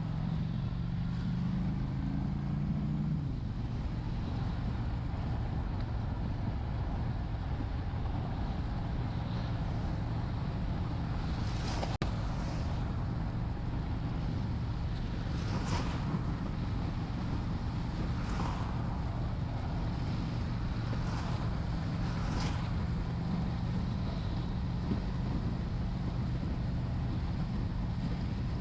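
Honda Shadow 750's V-twin engine running steadily at cruising speed, heard over wind noise on the microphone and a constant wet-road hiss. The engine note eases down about three seconds in, and a few short swishes come through around the middle.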